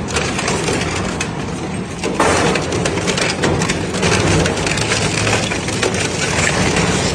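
Industrial shredder's cutters crunching and tearing through scrap metal, with cracks and bangs over the steady hum of the drive. The crunching eases about a second in and surges again just after two seconds.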